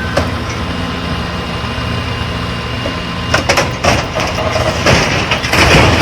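Heavy vehicle engine running steadily with a low hum, with a few sharp knocks about three to four seconds in and a louder rush of noise near the end.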